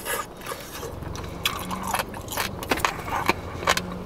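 Chewing of crispy fried chicken, the breading crunching in irregular crackles, about two or three a second.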